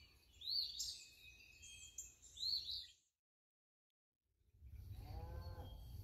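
Songbirds chirping, short arched chirps repeated every second or so, until the sound cuts out about three seconds in. After a second and a half of silence, a low steady outdoor rumble comes in with a faint drawn-out call.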